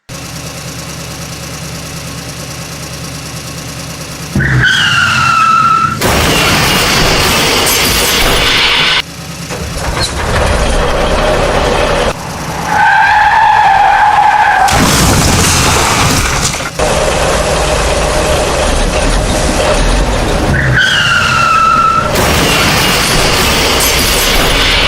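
Loud, noisy vehicle engine sounds in abruptly cut segments. A falling horn-like tone sounds twice, and a wavering tone comes near the middle.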